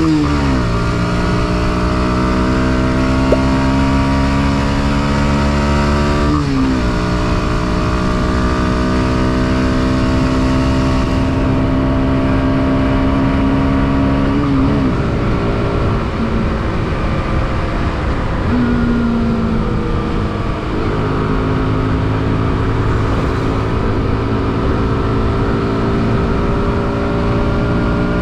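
Motorcycle engine pulling through the gears on the road: the engine note climbs steadily and drops back at each gear change, four times, over steady wind and road noise.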